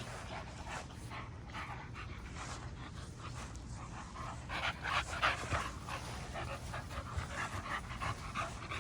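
American Bully puppies panting and huffing while they play together, in short irregular breaths that come thickest around the middle.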